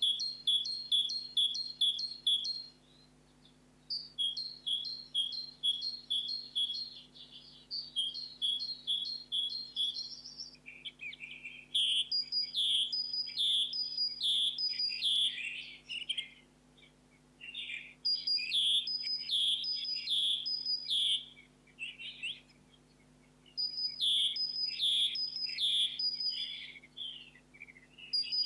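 Songbirds singing in a spring forest: phrases of quick, evenly repeated high notes a few seconds long, separated by short pauses. About ten seconds in, the song changes to a different, lower and fuller repeated phrase, as if a second bird has taken over.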